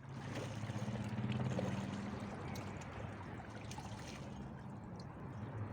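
Ocean water sloshing and trickling, with a low steady hum underneath and scattered small clicks.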